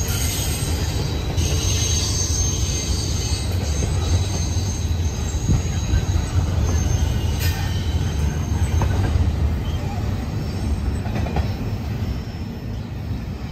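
Double-stack intermodal freight train rolling past: a steady low rumble of wheels on rail with a thin, high wheel squeal over it. The sound eases off near the end as the last car goes by.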